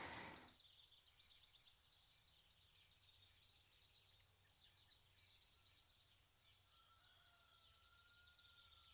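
Near silence: quiet woodland with faint, high bird chirps throughout and a thin, steady whistle-like tone in the last couple of seconds.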